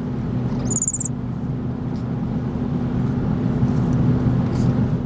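Steady low road and engine rumble inside a moving car's cabin, with a brief high squeak about a second in.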